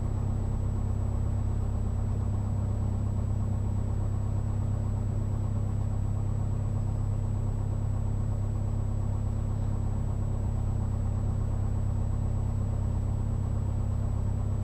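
Cessna 172's four-cylinder piston engine idling steadily, heard from inside the cockpit while the plane holds short of the runway. The hum keeps an even, unchanging pitch and level.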